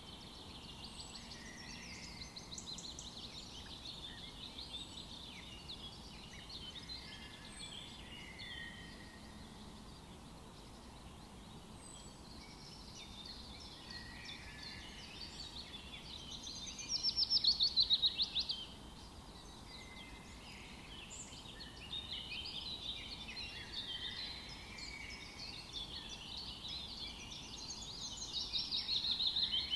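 Several wild birds singing and chirping over one another in an outdoor soundscape, over a faint steady background hiss. A loud, rapid run of repeated notes stands out about halfway through, and another comes near the end.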